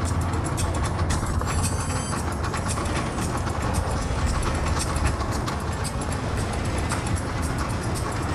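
Engines running with a steady low drone, under a constant clatter of clicks and rattles; a short high squeal cuts in about two seconds in.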